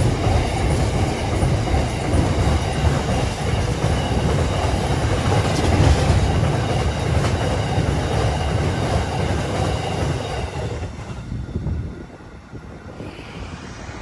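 A train running past on the rails, its wheels and cars making a loud, low, continuous noise that drops away sharply about twelve seconds in.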